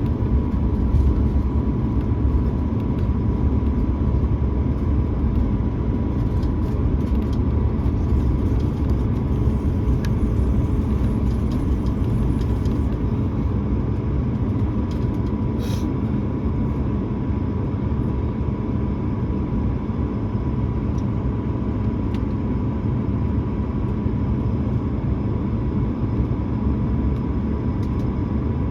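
Steady low rumble inside the cabin of an Airbus A220-300 on the ground, its Pratt & Whitney geared turbofan engines and air system running, with a thin steady whine held throughout.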